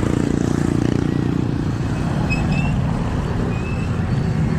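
Road traffic noise: a steady low rumble of vehicle engines and wind, with one engine's hum fading away over the first couple of seconds. A few short high chirps come about halfway through.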